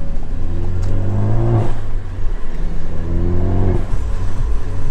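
2016 Ford Focus ST's turbocharged 2.0-litre four-cylinder, with an aftermarket cat-back exhaust, accelerating hard through the gears. The engine note rises and falls at a shift a little before halfway, then rises again and drops near the end.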